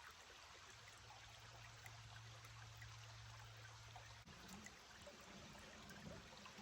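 Faint, steady rush of a creek flowing, close to silence.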